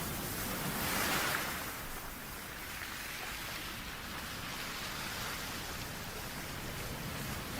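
Steady rushing white noise for sleep, swelling about a second in and then settling to an even hiss.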